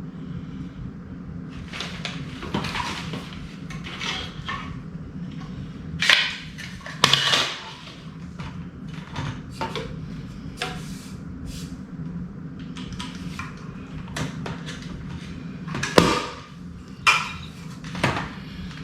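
Hard plastic parts of a cordless stick vacuum being handled and fitted together: scattered clicks, knocks and rattles, with a few louder knocks about six seconds in and again near the end. A steady low hum runs underneath.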